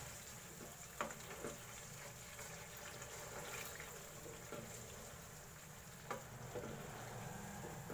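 Mutton curry with yogurt sizzling faintly in a coated karahi while a wooden spoon stirs it, with a few light knocks of the spoon against the pan. The yogurt's water is cooking off.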